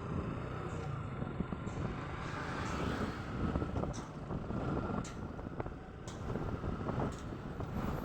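Motorcycle riding on the road: steady engine and road rumble, with a few short clicks.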